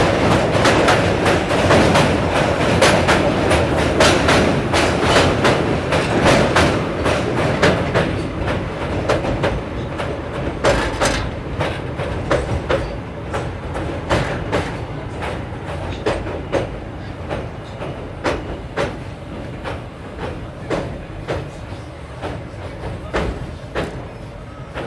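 Train wheels clicking over rail joints, heard from on board, with a steady rumble underneath. The clicks are dense at first, then thin out while the overall level falls gradually toward the end.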